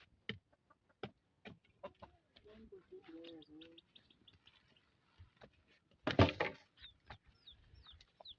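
Chickens clucking and small birds chirping, with scattered light clicks and one loud clatter about six seconds in.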